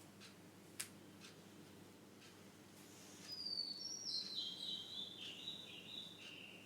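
A songbird singing before dawn: a run of high, clear notes stepping down in pitch, starting about three seconds in, with faint short chirps and a sharp tick about a second in.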